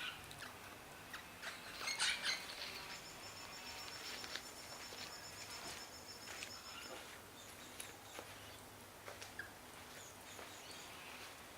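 Faint outdoor ambience with scattered bird chirps and clicks, a louder cluster about two seconds in, and a thin high steady whistle from about three to seven seconds in.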